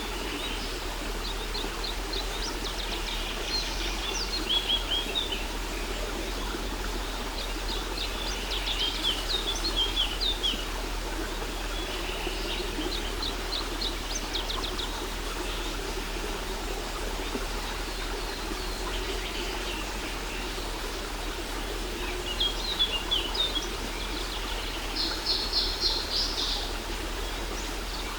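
Songbirds chirping and trilling in short bursts every few seconds, with a fast trill near the end, over the steady rush of a waterfall.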